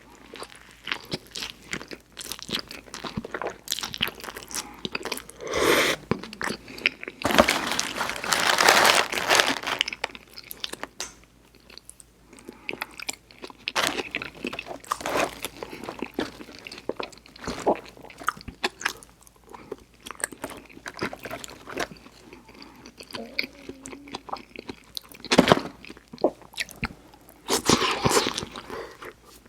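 Close-up mouth sounds of a person biting and chewing fast food: wet chewing with many small crunches and clicks. There are louder bursts of chewing a few times, the longest about eight seconds in.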